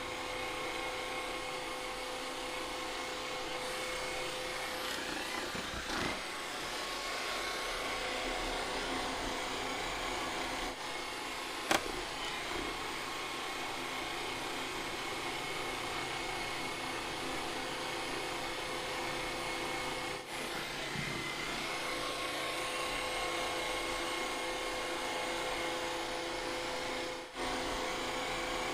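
A small electric motor running steadily, a high whine over a rushing hiss, broken by short dips as the clips change. There is one sharp click about twelve seconds in.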